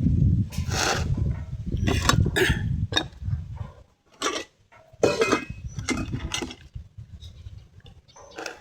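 Close-up eating sounds: chewing, with short irregular smacks and crunches coming every half second to a second, over a low rumble that fades out about halfway through.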